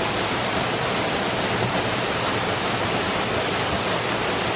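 Waterfall rushing, close by: a steady, unbroken roar of falling water at an even level.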